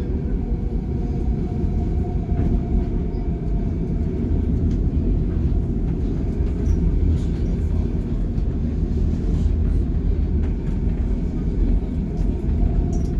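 Canada Line SkyTrain car running between stations, heard from inside the car: a steady rumble of wheels and running gear with a faint steady motor whine above it.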